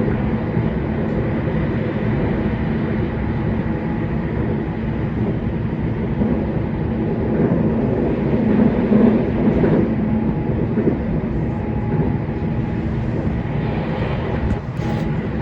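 JR West 227 series electric train running, heard from inside the car: a steady rumble of wheels on rail with a constant motor hum as it climbs the steep Seno–Hachihonmatsu grade.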